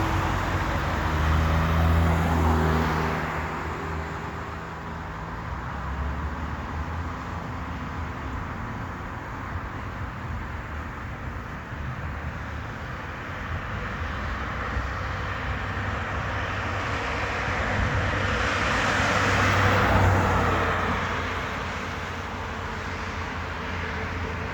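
Road traffic: vehicles driving past, one with an engine hum that swells and fades about two seconds in, and another, louder passing that builds and falls away near the end.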